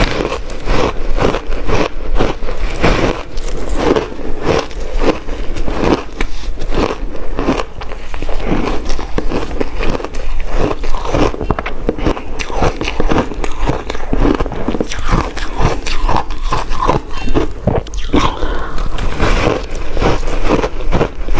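Frozen matcha ice being bitten and chewed close to the microphone: a rapid, irregular run of loud crunches and crackles, several a second, with no let-up.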